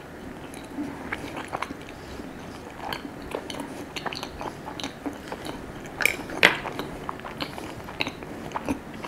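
Close-miked eating sounds: a person chewing and biting into a crepe, with many short, wet mouth clicks and small crunches. The loudest come about six seconds in.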